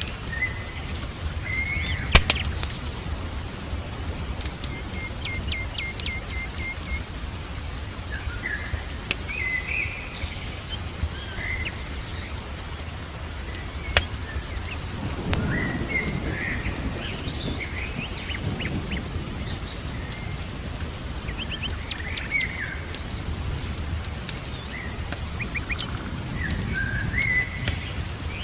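Songbirds chirping and giving short trills over a crackling wood fire, with sharp pops about 2 s and 14 s in, and a steady hiss of rain underneath.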